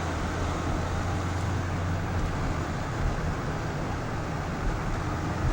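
Steady road noise of a moving car: a low engine hum under an even rush of tyre and wind noise.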